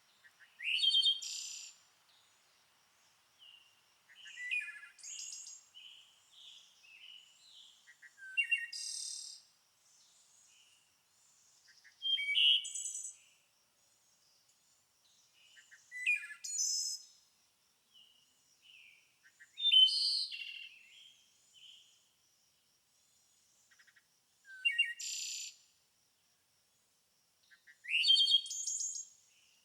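A songbird singing short, loud phrases about every four seconds, each a quick run of high notes and rapid trills, with softer single notes in between.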